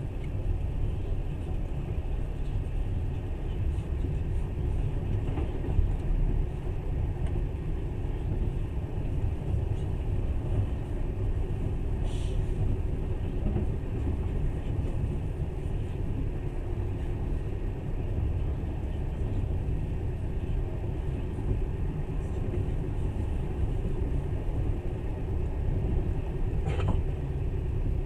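Passenger train running along the track, heard from inside the carriage as a steady low rumble of wheels on rails.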